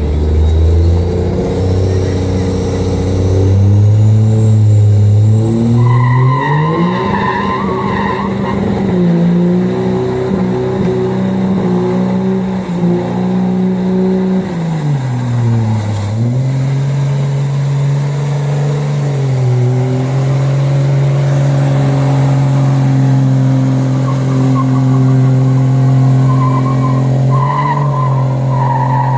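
Car engine accelerating, its pitch rising in steps as it climbs through the gears, dropping sharply about halfway through at a shift, then holding steady at cruise.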